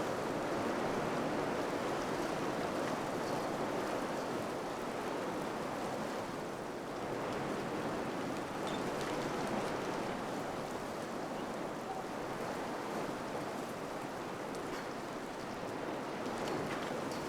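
Wind blowing steadily, an even rushing noise that eases and swells slowly, dipping briefly about seven seconds in and again near the end.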